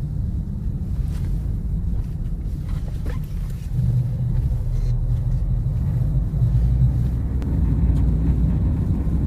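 Car engine and road noise heard from inside the car as it climbs a steep mountain road under load: a steady low rumble that grows a little stronger and steadier about four seconds in.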